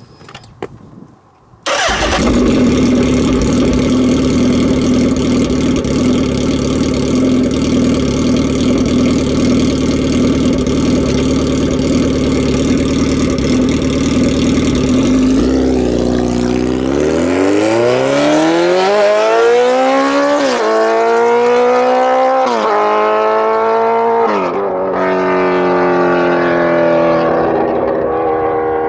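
Suzuki Hayabusa's inline-four through a full VooDoo 4-in-1 exhaust with the baffle removed. It fires up about two seconds in and idles steadily, then the bike pulls away, revving up through three quick gear changes and fading as it rides off.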